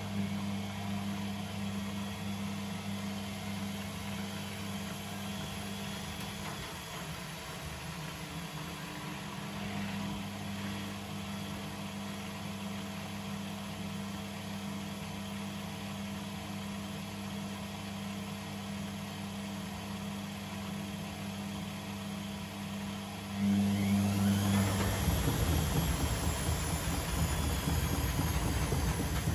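Privileg Sensation 952 S top-loading washing machine running with a steady low hum. About 23 seconds in, the motor speeds up with a rising whine and the sound grows louder as the drum spins up.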